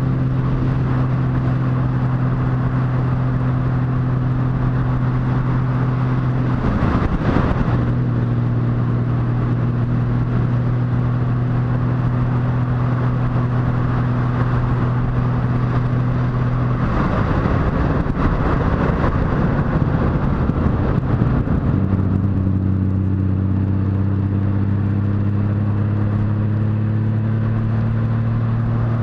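Motorcycle engine running steadily under way, with wind and road noise. Its note breaks briefly about seven seconds in and again for a few seconds later on, then settles lower and climbs slowly.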